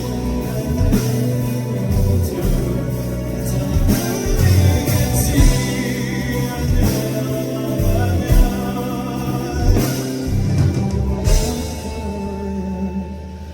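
Live band playing, with singing over bass, guitar and drums. About eleven seconds in the drum hits stop and the music eases into a quieter sustained ending.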